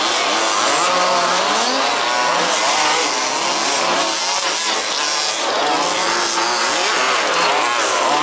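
Several 1/5-scale RC buggies' small two-stroke petrol engines racing together, overlapping engine notes revving up and down as the cars accelerate and brake around the track.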